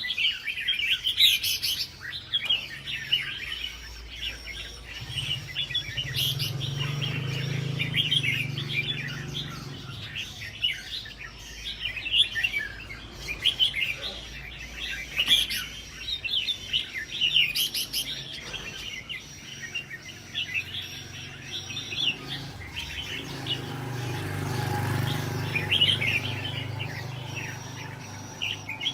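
Red-whiskered bulbul singing, a steady run of quick, bright chirping phrases. A low drone swells twice in the background.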